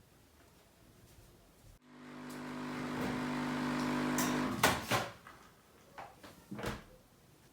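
A steady mechanical hum that swells for about three seconds, then stops, followed by a few sharp knocks.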